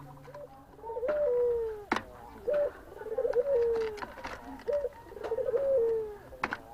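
Puter (Barbary or ringneck dove) cooing in breeding condition: a repeated two-part coo, a short note followed by a longer falling note, starting about a second in and coming three or four times. A couple of sharp clicks land between the coos.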